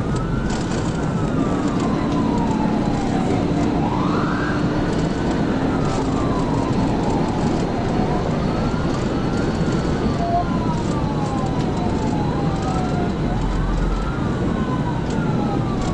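Police cruiser siren on a slow wail, rising and falling about every four to five seconds, over steady road and wind noise from the car at pursuit speed.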